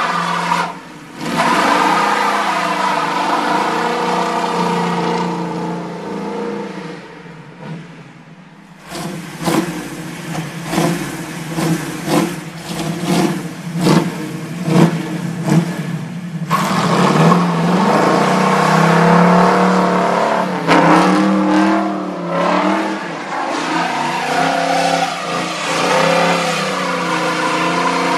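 Chevrolet big-block V8 in a 1969 Camaro revving hard during burnouts and donuts, the rear tyres spinning and smoking. The engine eases off for a moment partway through, then comes back in short, sharp, repeated revs before pulling into long high revs with the pitch rising and falling.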